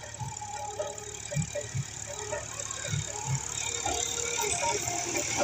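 Tractor engine running steadily, with irregular low thuds over a steady hum.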